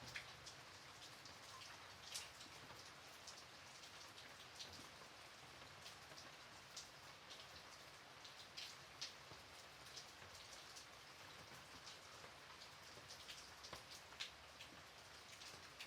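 Light rain falling steadily and faintly, with scattered individual drops landing as sharp ticks over a soft hiss.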